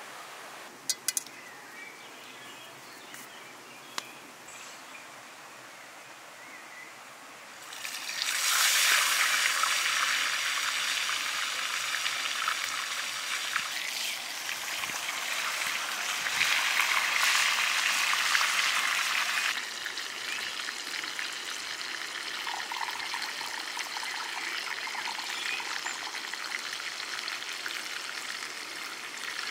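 Chicken pieces frying in oil in a cast-iron pan, a loud sizzle that starts suddenly about a quarter of the way in and drops away suddenly past the middle, leaving a softer steady hiss. Near the end, tea trickles from a glass teapot into a cup.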